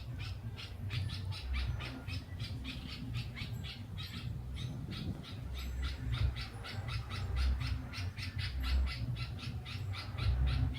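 A bird calling in a long run of short, sharp, high notes repeated about five times a second, with a brief pause about four seconds in. A low rumble runs underneath.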